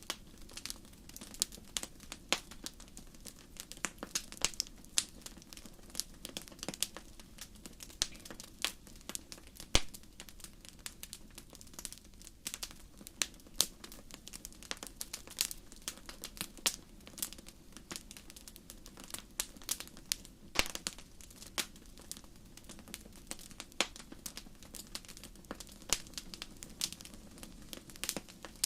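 Fire crackling: irregular sharp pops and snaps, several a second, over a faint steady low background.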